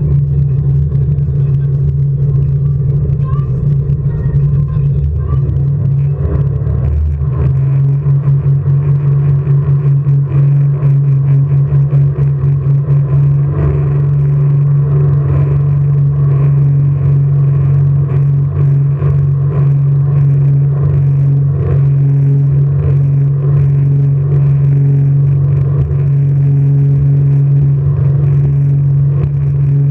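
Jet boat engine running at a steady, unchanging pitch. For several seconds about a quarter of the way in, the sound flutters rapidly.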